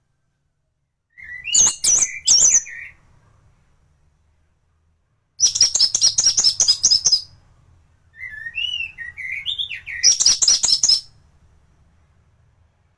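Orange-headed thrush singing in three quick phrases of varied whistled notes and fast trills, with short pauses between them; the middle phrase is one fast trill.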